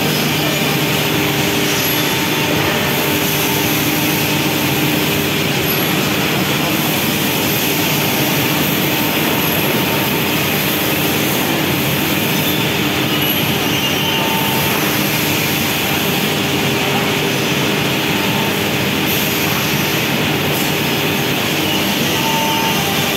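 Steady, loud machine noise of a factory floor with CNC machining equipment running, a constant roar with faint steady hums and occasional short high tones.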